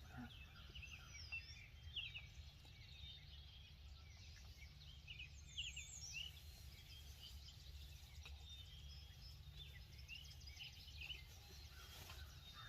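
Faint, scattered songbird chirps and short whistled calls over a low, steady rumble.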